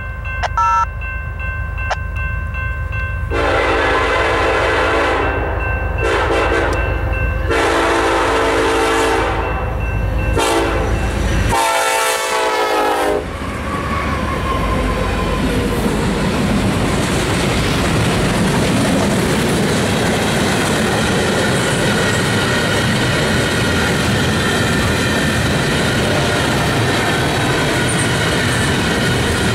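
Freight train horn on the lead BNSF EMD SD70ACe sounding a string of long blasts as a salute while the train approaches, the last blast bending in pitch as the locomotive reaches the camera. Then the locomotive consist and covered hopper cars roll past with a steady rumble and clickety-clack of wheels on the rail.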